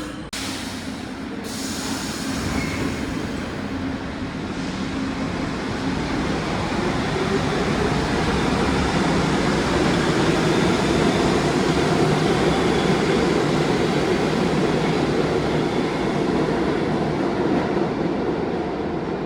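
New York City subway train running on the rails with a steady rumble. The rumble builds over the first several seconds, stays loud, and eases slightly near the end.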